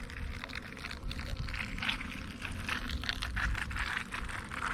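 Water being poured into empty honeycomb cells to give the bees water: an uneven splashing, trickling hiss.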